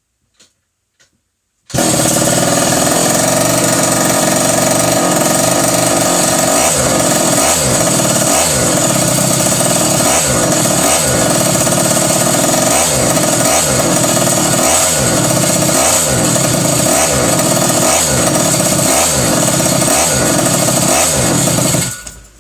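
Pocket bike's small two-stroke engine running very loud through a broken muffler that has only been patched with duct tape. It comes in suddenly about two seconds in and cuts off just before the end.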